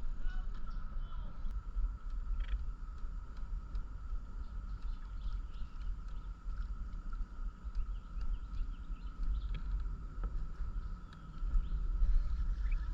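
Outdoor ambience on open water: a low, fluctuating rumble, a steady thin high hum and scattered faint chirps and clicks.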